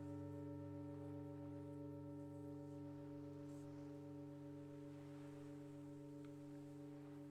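Singing bowl ringing on after a strike, several steady overtones sounding together with a slow pulsing waver in one of them.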